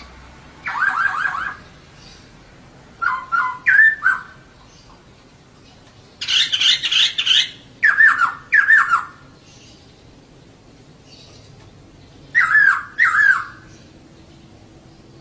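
Female laughingthrush (poksay) calling in about five short, loud phrases of quick repeated curving notes, with pauses of a second or more between them.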